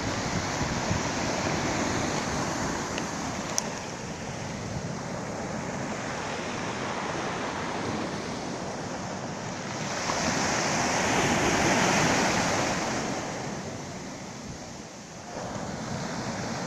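Black Sea surf washing on the shore, a steady wash with one bigger wave swelling up about ten seconds in and dying away a few seconds later.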